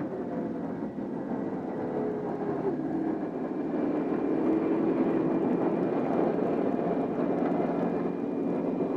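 Large helicopter's engines and rotors running: a steady drone with a whine that dips slightly in pitch over the first few seconds and grows a little louder.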